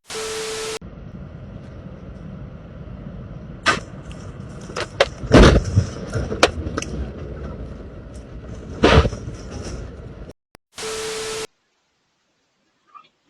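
A steady low rumble broken by several sharp bangs or knocks, the loudest about five and a half seconds in and again near nine seconds. It is bracketed by two short bursts of static-like hiss with a steady tone, one at the start and one about eleven seconds in.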